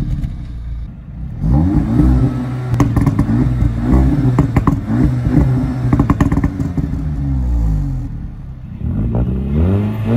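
Audi S3 and turbocharged Toyota Yaris engines revving repeatedly while standing still, the revs rising and falling again and again. A run of sharp pops comes in the middle, and the revving eases off briefly near the end before picking up again.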